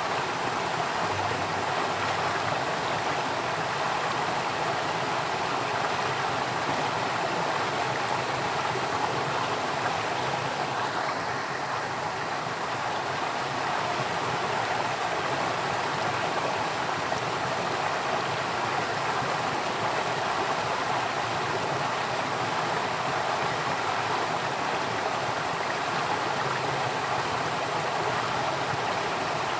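Flowing stream water running steadily with an even rushing sound.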